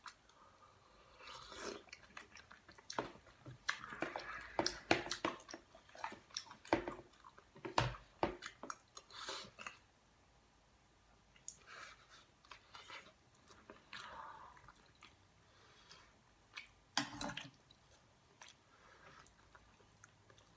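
A person eating kimchi stew: chewing and mouth sounds with irregular small clicks and knocks, busiest in the first half and sparser after about ten seconds, with one sharp knock about seventeen seconds in.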